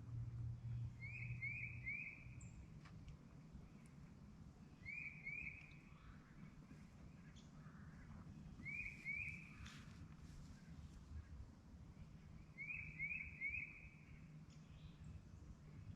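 A songbird singing quiet, short phrases of two or three clear notes, repeated about every four seconds, over faint woodland ambience.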